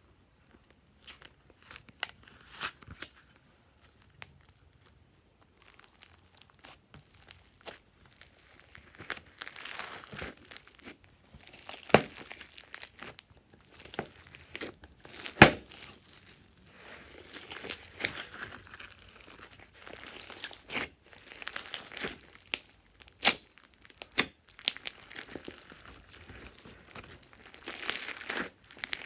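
Glossy slime being stretched, folded and pressed by hand, giving sticky crackling and tearing sounds with sharp pops. It is sparse at first and gets busier, with a few louder snaps.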